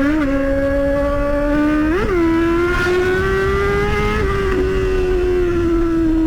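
Motorcycle engine running at low speed, with quick throttle blips at the start and about two seconds in, then the pitch climbing gently and slowly easing off.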